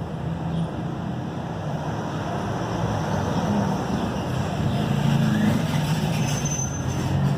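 LG washing machine drum turning on a spin cycle, a steady machine hum and rush that slowly gets louder as the drum picks up speed.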